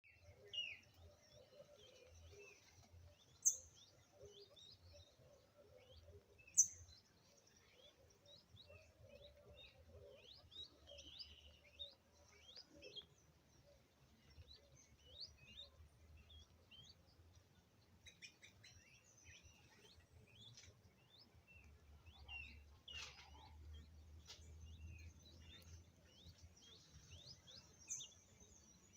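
Faint bird calls: many short, high chirps throughout, with two louder, sharp high notes about three and six and a half seconds in, over a faint low background rumble.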